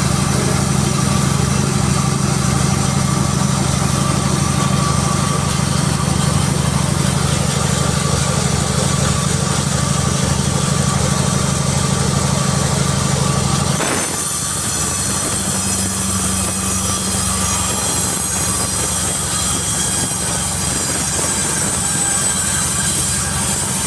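Sawmill machinery running with a steady loud hum. About halfway through, the hum changes to a lower, different pitch and a high hiss rises above it.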